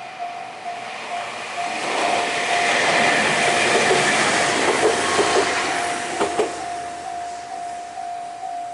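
Electric train passing a Japanese level crossing. Its wheel-and-motor rush builds about two seconds in, is loudest mid-way and fades, with a few sharp clacks over rail joints around six seconds. The crossing's warning bell rings in a steady repeating beat.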